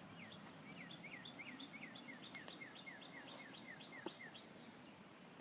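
Faint songbird song: a quick series of short, downward-slurred chirps, about four a second, running for about four seconds and then stopping.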